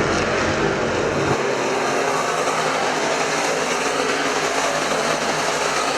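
IMCA Modified race cars running at racing speed on a dirt oval, their engines making a dense, steady racket; the deep rumble falls away sharply about a second and a half in.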